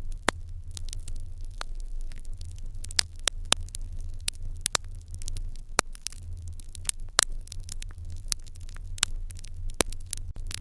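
Fire in an irori hearth crackling, with irregular sharp pops several times a second over a low steady hum.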